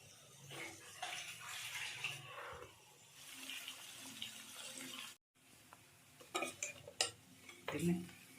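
Water running for a few seconds, then, after a momentary break, several sharp clinks and knocks of kitchen utensils and pots.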